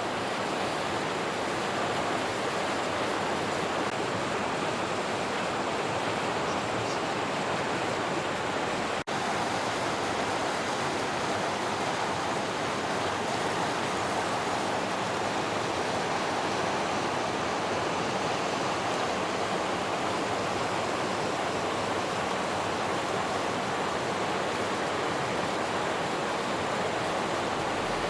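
Motueka River rushing, a steady, even roar of fast water, swollen after weeks of rain. A brief dropout breaks it about nine seconds in.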